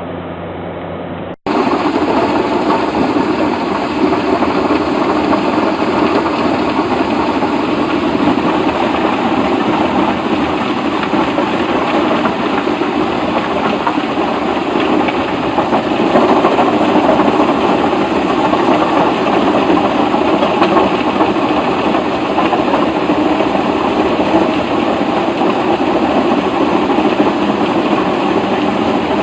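A heavy machine running steadily, a dense, unbroken mechanical noise that starts abruptly about a second and a half in.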